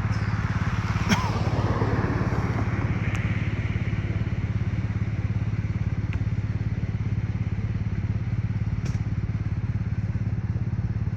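Police motorcycle engine idling with a steady, evenly pulsing low rumble. A short knock comes about a second in.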